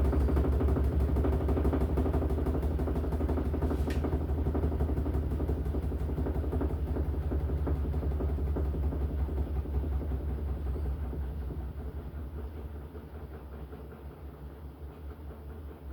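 LG top-loading washing machine spinning with a steady low hum and a fast even pulse, then winding down and getting quieter over the last several seconds. There is a faint click about four seconds in.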